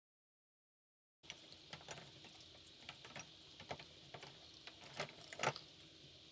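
Silence for about the first second, then faint scattered light clicks and taps over a low background hiss, with one sharper click about five and a half seconds in.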